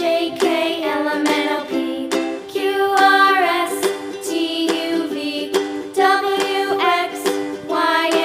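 Background music: a bright tune with plucked ukulele notes and a melody line that slides between notes over them.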